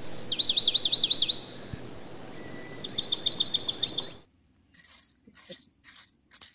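A bird calling: a quick run of high falling whistles, then a fast trill of repeated notes about three seconds in. Near the end, a small metal scoop scrapes and rattles in a pot of gravel chips in short strokes.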